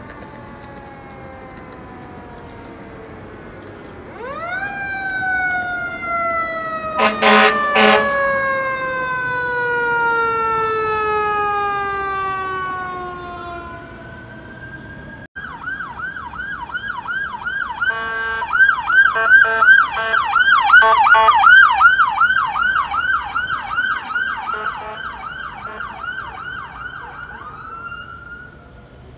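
Fire apparatus sirens. A siren winds up quickly and then slowly falls away in pitch, with two short air horn blasts over it. After a sudden change about halfway through, a siren runs on a fast, rapid yelp and winds down near the end.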